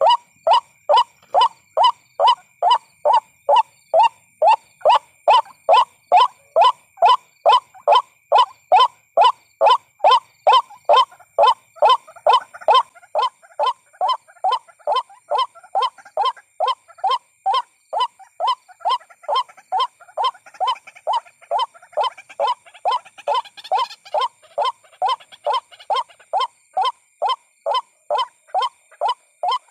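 White-breasted waterhen calling over and over, one short call about every 0.4 seconds at an unbroken even pace: a bird-lure call recording. A faint steady high tone runs underneath.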